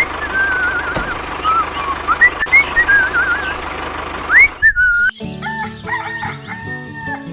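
A steady mechanical hum with warbling, bird-like whistles over it. About five seconds in it stops and background music with held synth notes takes over.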